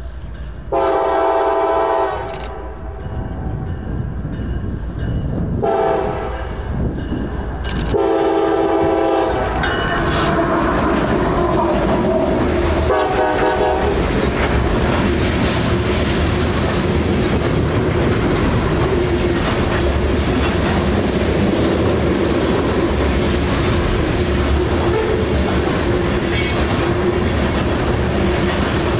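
CSX ES44AH locomotive's five-chime Nathan air horn sounding a long, a short and a long blast, then the locomotive and freight cars rolling past with wheels rumbling and clicking over the rails.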